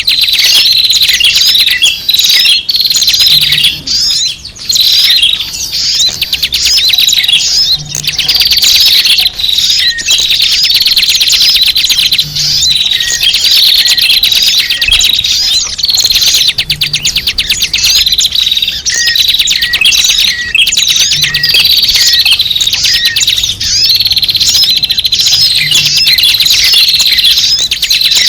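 Many small birds chirping and twittering at once in a dense, unbroken chorus of high, quick calls: a small-bird lure recording of the kind used to draw birds in for trapping.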